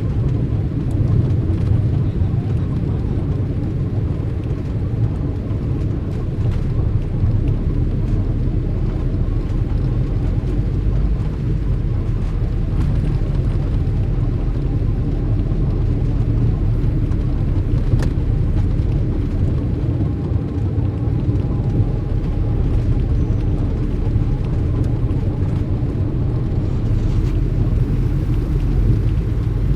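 Steady low rumble of car traffic, engines and road noise, with no sharp events apart from a single click about eighteen seconds in.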